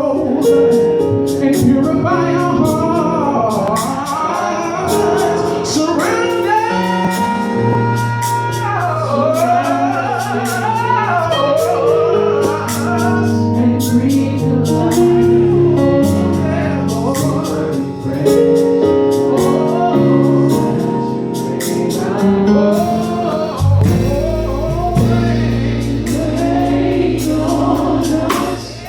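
Gospel song with a band: a solo voice sings long, sliding runs without clear words over sustained chords and a steady beat. A deep bass comes in about 24 seconds in.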